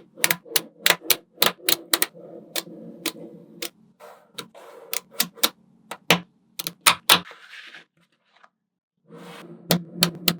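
Small magnetic balls snapping together one after another: quick, irregular runs of sharp clicks, with a pause of about a second and a half in the second half.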